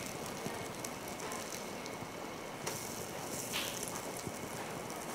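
Egg-soaked bread slices frying on a hot non-stick electric griddle: a steady, fine sizzling crackle as the egg cooks.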